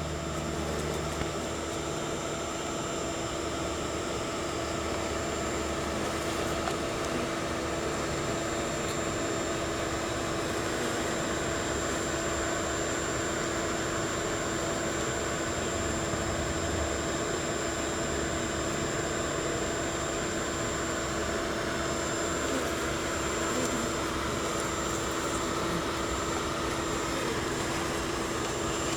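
A feral honeybee colony buzzing: a steady, even hum with no breaks.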